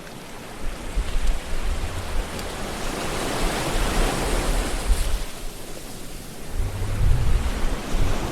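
Ocean surf: waves washing onto the shore as a steady rush, one wave swelling up and cresting around the middle before easing off. A low rumble comes and goes beneath it.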